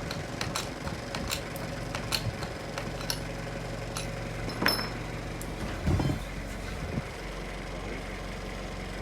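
Repeated metal clinks and knocks of tools working on steel, over a steady engine idle. There is a heavier knock about six seconds in, and the engine hum drops away about a second later.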